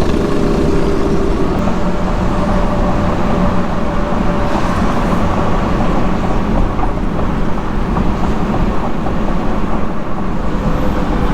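Car driving slowly through town streets, heard from inside the cabin: a steady low rumble of engine and road noise.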